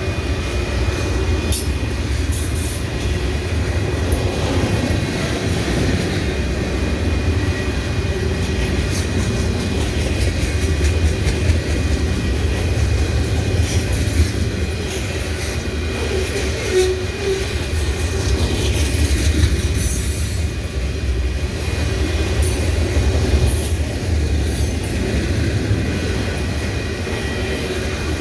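Freight train rolling past: a steady low rumble of wheels on rail, with scattered clicks and a faint high wheel squeal.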